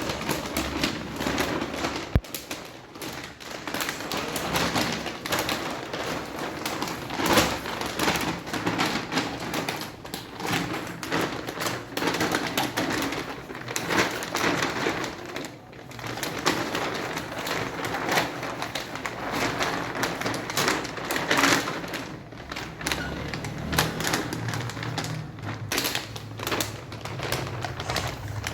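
A baby playing noisily: a busy, uneven run of taps, knocks and clatter, mixed with cooing sounds.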